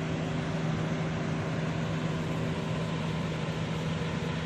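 Steady mechanical hum with a low drone and a constant rushing noise.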